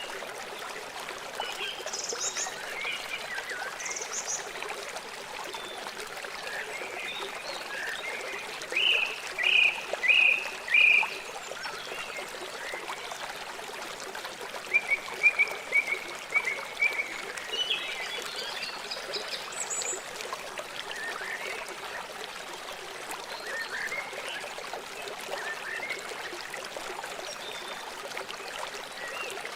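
Steady rush of a flowing river, with high chirping calls over it, coming in quick runs of short notes about nine seconds in and again around fifteen seconds.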